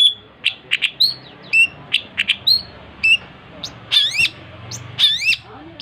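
Long-tailed shrike (cendet) singing vigorously: a rapid run of sharp, high chips and short whistles, then about four and five seconds in, longer swooping notes that dip and rise.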